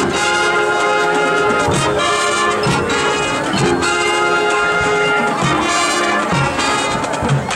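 Marching band brass section playing loud sustained chords, with a few percussion hits between them.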